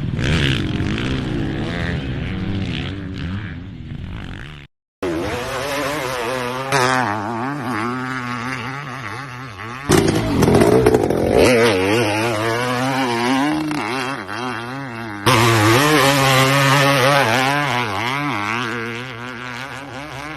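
Motocross bike engines revving up and down across several short clips, with abrupt cuts between them and a brief dropout to silence about five seconds in.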